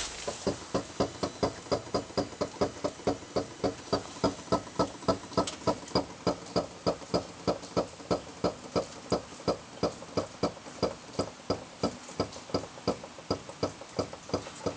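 Vehicle creak: a short, pitched creak repeating steadily about three times a second.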